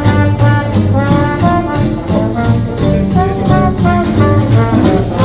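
Live small-band swing jazz in an instrumental break: a brass horn plays a melodic solo over a rhythm section keeping a steady swing beat.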